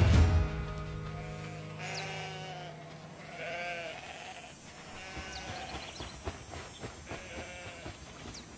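Sheep bleating several times, in long quavering calls, with short high bird chirps between them. Background music fades out in the first half second.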